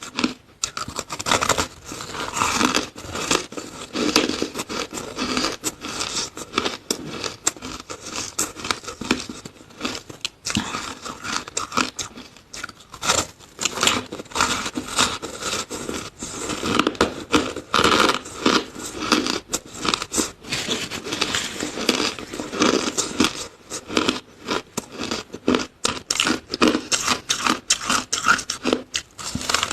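Close-up crunching and chewing of flavoured shaved ice, a dense, unbroken run of crisp crunches and scrapes.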